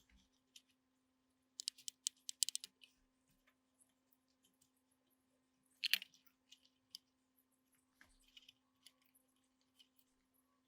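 Faint scattered clicks and light taps of small parts and tools being handled at a workbench, a quick cluster of clicks about two seconds in and a sharper click about six seconds in, over a faint steady hum.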